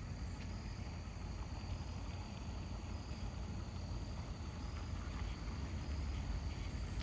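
Low steady rumble of an SUV's engine heard from inside the vehicle, with crickets trilling faintly and steadily in the background.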